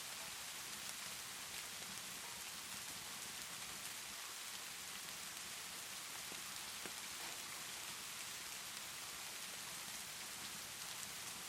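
Steady rainfall, a continuous even hiss, with a few faint sharp ticks scattered through it.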